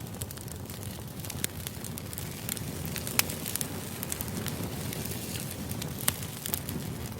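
Steady low background noise with irregular sharp crackles and pops scattered through it.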